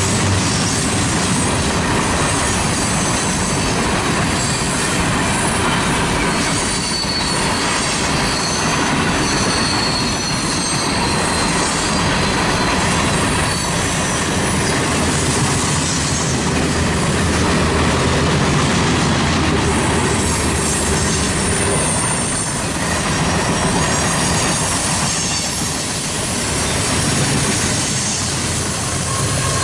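BNSF freight train's cars rolling past, steel wheels running loudly and steadily on the rails, with high-pitched wheel squeals coming and going.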